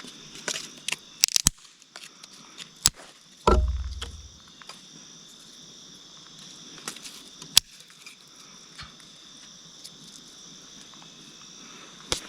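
Steady high insect chirring throughout, with scattered sharp clicks and snaps of small dry kindling sticks being handled and laid for a campfire, and one dull thump about three and a half seconds in.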